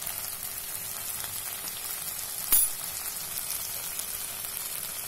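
Vegetables and sauces sizzling steadily in a hot kadhai, with one sharp click about halfway through.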